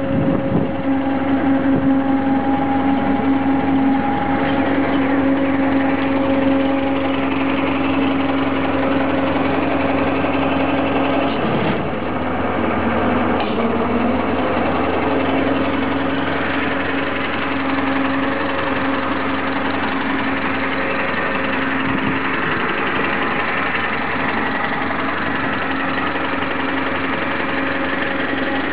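1955 International Harvester 300 Utility tractor's four-cylinder engine idling steadily, with a steady whine over it that comes from the planetary-type independent PTO.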